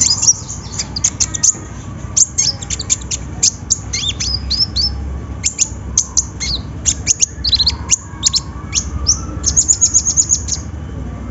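Kolibri ninja, a sunbird, singing a fast, high-pitched song of sharp chirps and short gliding whistles, ending in a quick rapid run of notes that breaks off about a second before the end.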